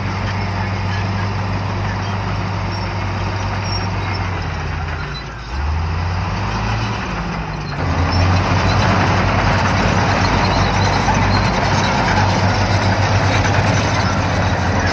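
Shantui bulldozer's diesel engine running steadily. Its note dips and shifts about five seconds in, then grows louder and fuller from about eight seconds in as the machine works harder.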